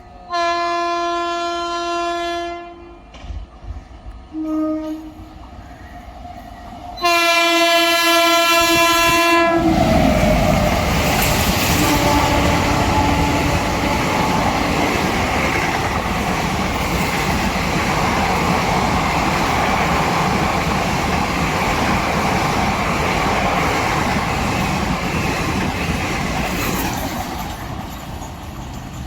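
High-speed express train sounding a long horn blast, a few short toots, then a second long blast that drops in pitch as it reaches the microphone. After that comes the loud rush and wheel clatter of the coaches passing at speed for about fifteen seconds, fading near the end.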